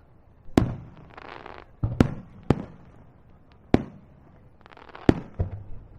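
Aerial firework shells bursting: about six sharp bangs, two of them close together near the end, with two spells of crackling glitter between them.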